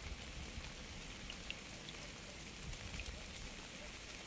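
Steady rain falling, with a few individual drops ticking sharply above the even hiss.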